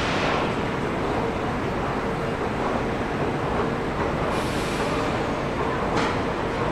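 Steady rumble and hum of electric trains in a railway station, with short hisses of compressed air at the start, about four seconds in and about six seconds in.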